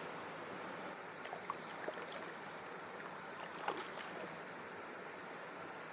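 Steady rush of shallow river water moving around a canoe, with a few small splashes and drips, the loudest nearly four seconds in.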